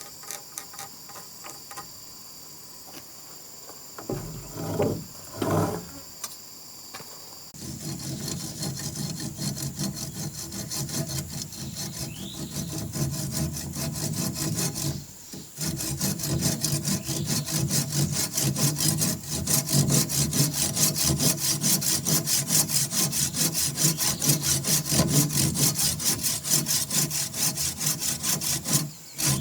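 Hand saw cutting through wood with quick, even strokes, starting about seven seconds in, pausing briefly midway and stopping just before the end. Insects chirp steadily before the sawing starts.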